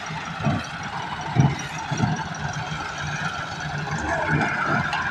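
Massey Ferguson 385 tractor's diesel engine running steadily, with a few louder low thumps in the first two seconds.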